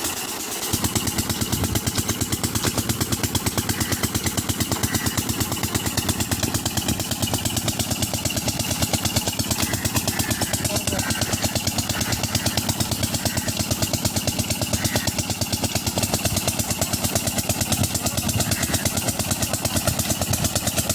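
Petter diesel tube-well engine running steadily with an even pulsing beat, about four to five firing strokes a second; it becomes louder about a second in.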